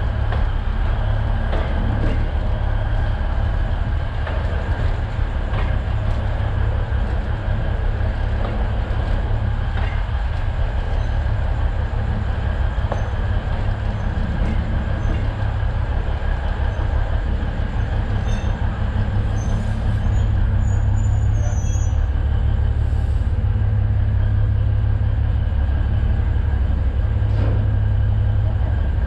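Alishan Forest Railway narrow-gauge train running, heard from the driver's cab: a steady low rumble of engine and running gear, with occasional faint clicks from the wheels. It grows slightly louder about two-thirds of the way through.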